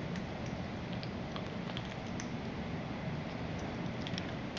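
African Grey parrot nibbling a sesame-covered breadstick with her beak: scattered small, irregular crunchy clicks over steady room noise.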